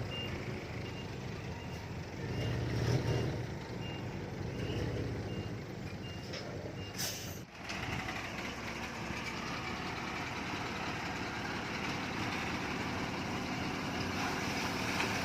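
Heavy earthmoving machinery running while a reversing alarm beeps repeatedly. The beeping stops about halfway through, leaving the steady engine noise.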